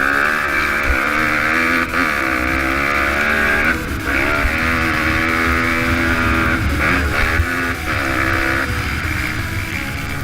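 Pit bike engine, a small single-cylinder motorcycle engine, revving up and down repeatedly under riding, with brief breaks in the note about two and four seconds in and again near the eighth second.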